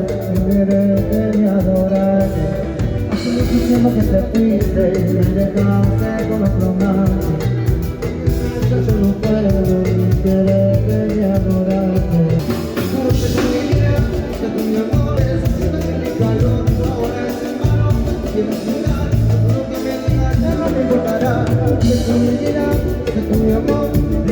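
Live Latin band playing a song with a singer, guitar and drums, at a sound check.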